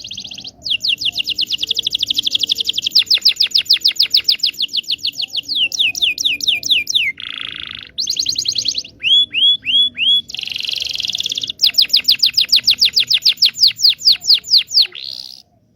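Canary singing a long, varied song. It runs through fast trills of about ten rapid notes a second, a short buzzy rattle, four down-slurred whistles, then more quick trills, and it stops suddenly just before the end.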